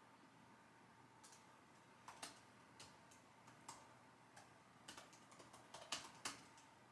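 Computer keyboard typing in irregular spurts: a few scattered keystrokes begin about a second in, then a quicker run of keys near the end with two sharper, louder strikes.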